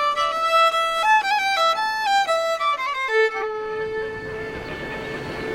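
Background music: a fiddle playing a stepping melody, then holding one long note from a little past halfway.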